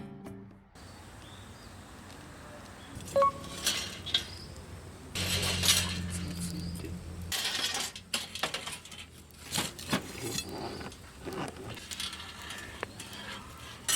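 Camp cookware and utensils clinking and knocking against each other in scattered, irregular knocks.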